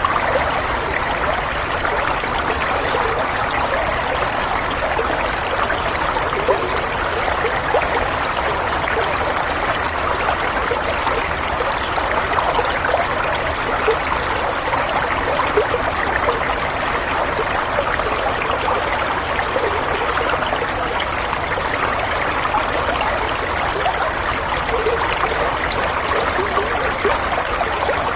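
Running water flowing steadily, a continuous babbling rush with no breaks.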